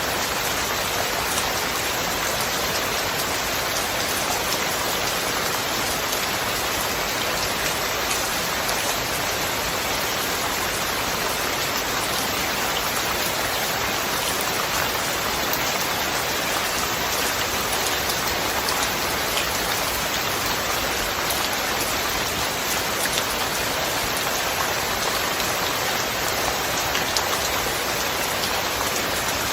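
Steady rain falling, an even hiss flecked with the ticks of single drops.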